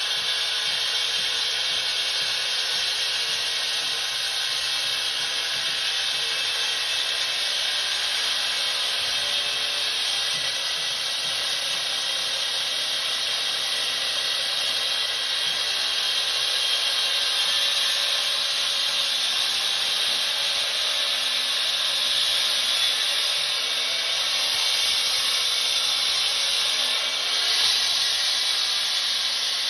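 Handheld concrete saw running steadily at high speed, a little louder in the second half.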